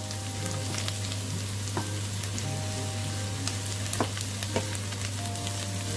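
Goat meat with onions and green peppers sizzling and crackling in hot oil in a frying pan as it is stirred with a wooden spoon, with many small pops over a steady low hum.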